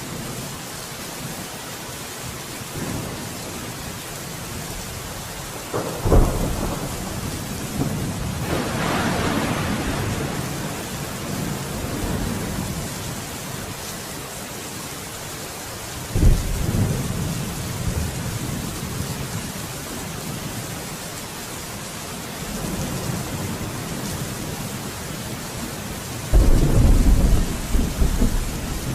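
Steady rain falling, with thunder: sudden deep cracks about six seconds in, again around sixteen seconds and near the end, each rolling on for a few seconds, and a longer rumble in between.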